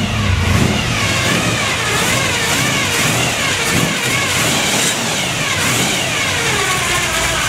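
A 1957 Chevy's 350 small-block V8 on two four-barrel carburetors running just after a cold start with no choke, its revs rising and falling. The whine of its noisy Pete Jackson gear-drive timing set rises and falls with the revs.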